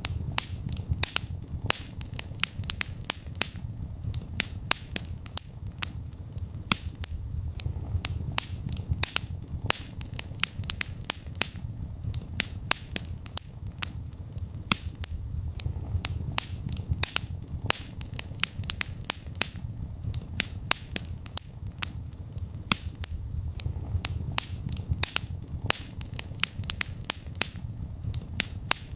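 Wood fire burning in a fireplace: irregular sharp crackles and pops, several a second, over a low steady rumble of flame that swells and eases every few seconds.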